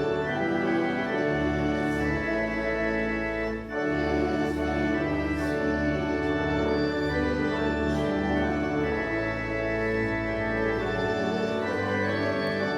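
Church organ playing slow, held chords over sustained low bass pedal notes, with a brief break between phrases about three and a half seconds in.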